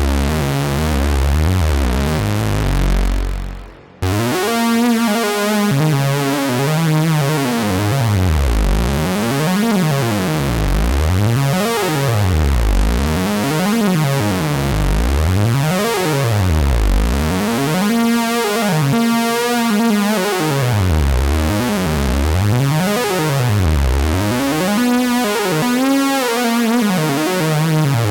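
2022 reissue Minimoog Model D analog synthesizer playing low held bass notes that fade out about four seconds in. It then comes back with a deep tone whose pitch swoops down and up over and over, about every two seconds.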